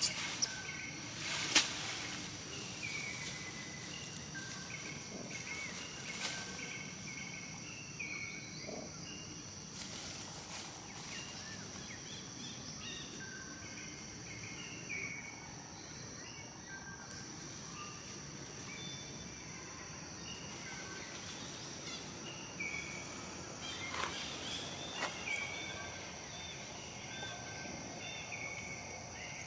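Outdoor tropical ambience: a steady high-pitched insect drone with short chirping calls repeating throughout. A few sharp knocks stand out, the loudest about a second and a half in and a couple more near the end.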